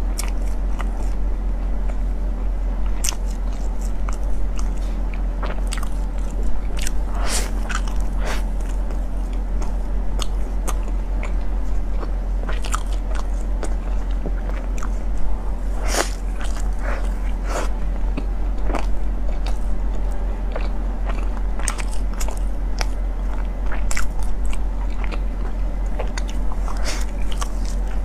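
Close-miked eating of a pork floss bread roll: biting and chewing, with irregular, scattered sharp mouth clicks and moist smacking, over a steady low hum.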